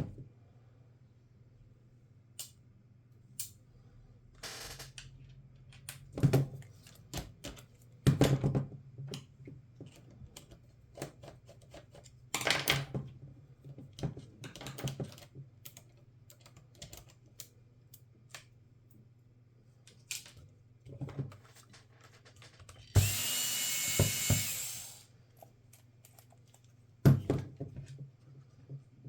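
Laptop parts and small hand tools handled during a teardown: scattered light clicks and knocks, some louder. About two-thirds of the way through, a steady whirring hiss runs for about two seconds.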